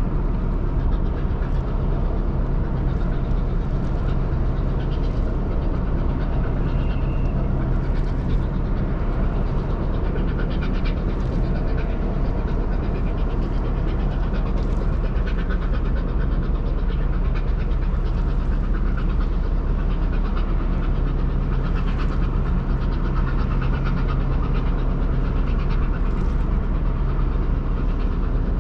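Steady low engine drone of a large Ro-Ro passenger ferry, with an even rushing noise over it.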